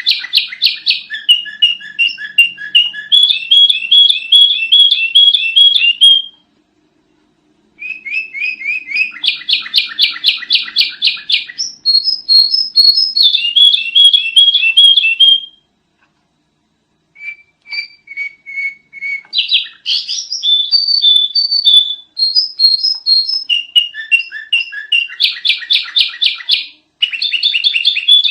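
Sooty-headed bulbul (kutilang) singing loud, busy phrases of rapid repeated chirps, about five to six notes a second, with the pitch jumping between phrases. Short pauses fall about six seconds and sixteen seconds in.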